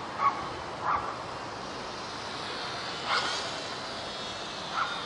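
Small electric motor and propeller of a WLToys F949 Cessna-182 RC plane running steadily in flight. Four short high sounds cut in, one about three seconds in rising in pitch.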